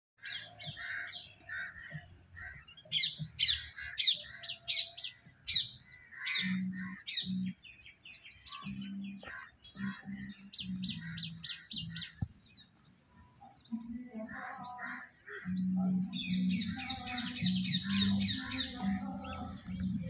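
Several small birds chirping in the morning, with runs of quick, sharp chirps that come thick and fast near the end.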